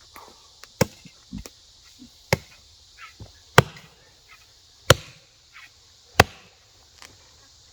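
A mattock chopping into a tree root by hand: five sharp, loud strikes about a second and a quarter apart, with fainter knocks between them.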